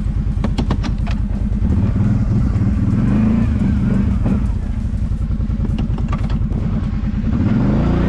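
Kawasaki Brute Force 750 ATV's V-twin engine running at a low, steady pace on a trail. There are a few sharp clicks about a second in, and the revs rise near the end.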